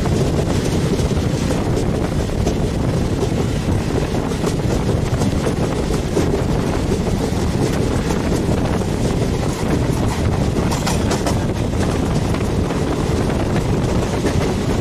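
A moving passenger train heard from its open door: the steady rumble of the coaches running on the rails, mixed with wind rushing over the microphone.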